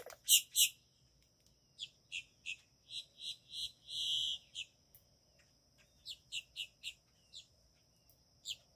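Bird calls: runs of short, sharp, high chirps, about three a second, the two loudest right at the start. A steady thin high-pitched tone runs beneath them from about half a second in.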